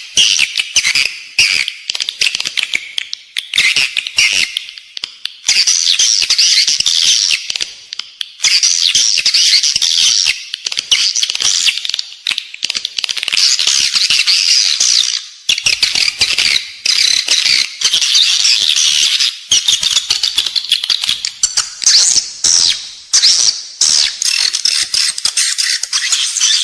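Edible-nest swiftlets calling: a loud, dense, rapid high twittering chatter with short breaks every few seconds. This is the lure call played inside swiftlet houses to draw the birds in to roost and nest.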